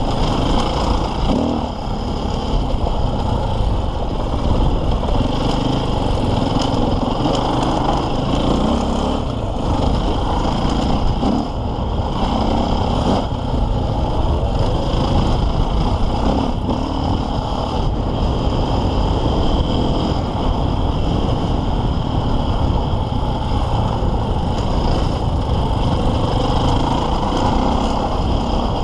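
KTM 450 EXC enduro motorcycle's single-cylinder four-stroke engine running under load, revs rising and falling with the throttle, heard from onboard the bike. The throttle is briefly rolled off about two seconds in and again around eleven seconds.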